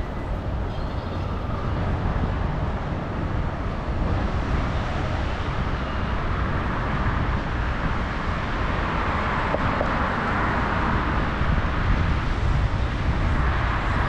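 Street traffic noise heard from a bicycle, with a steady low wind rumble on the action camera's microphone; a rushing noise swells louder in the second half.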